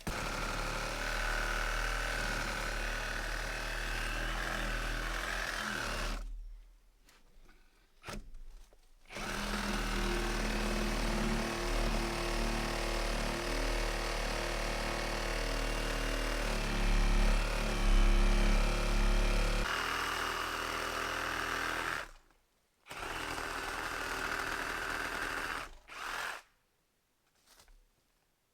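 Chainsaw running and cutting down trees, loudest about two thirds of the way through. The sound breaks off abruptly three times.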